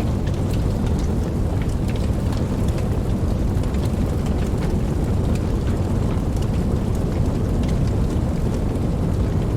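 Steady rain: an even, continuous hiss with a deep low rumble beneath it and scattered sharp drop ticks on top.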